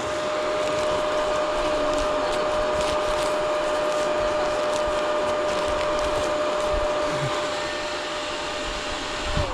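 A dirt bike engine held at a steady high pitch for several seconds under a steady hiss, its whine dropping in pitch near the end as it eases off.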